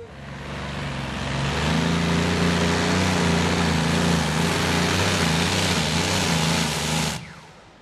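Competition pulling tractor's engine running flat out under load during a pull. It builds over the first two seconds, holds steady and loud, then stops abruptly near the end.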